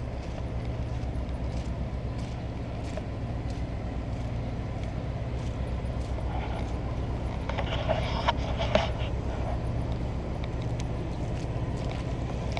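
A steady, low engine hum, with a short burst of louder mid-pitched noise and two sharp knocks about eight seconds in.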